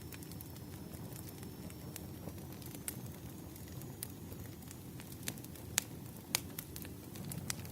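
Firewood burning in a campfire: a steady low rumble of flames with scattered sharp crackles and pops, a few louder pops in the second half.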